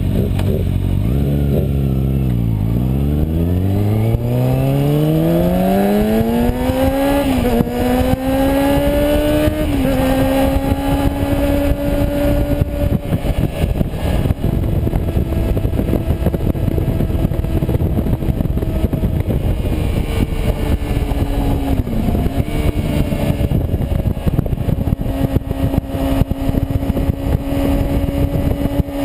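Kawasaki Ninja ZX6R sportbike's inline-four engine from an onboard camera: the revs drop for a couple of seconds, then climb steadily for about seven seconds with a short dip partway as it shifts gear, then hold steady at cruising speed with one brief dip later on. Rough wind noise on the microphone runs underneath.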